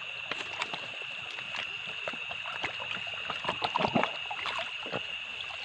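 Shallow stream water splashing and sloshing, with a busier, louder cluster of splashes about three and a half seconds in, over a steady high-pitched trill of night insects.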